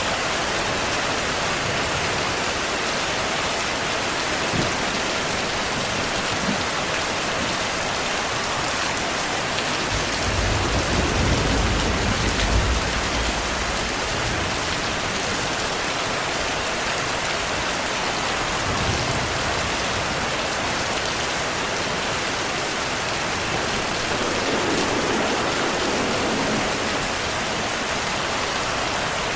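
Steady heavy rain falling, with a low rumble of distant thunder about ten seconds in that lasts a few seconds, and a fainter rumble a few seconds later.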